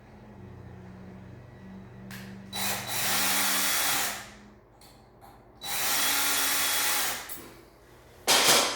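Power drill/driver run twice in bursts of about a second and a half each, backing out a screw. A short loud noise follows near the end.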